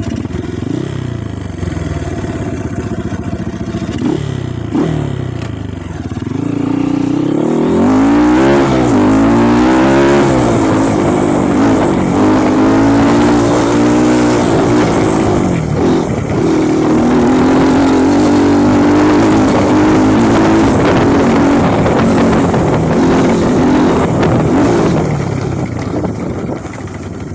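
Off-road trail motorcycle engine running under throttle, its pitch repeatedly rising and falling as it revs; it grows louder about seven seconds in and stays loud until it eases near the end.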